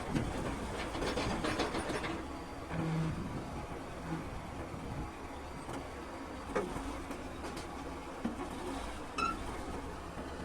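Komatsu crawler bulldozer running with a steady low engine rumble, its steel tracks and parts clanking with a few sharp knocks, and a short high squeal near the end.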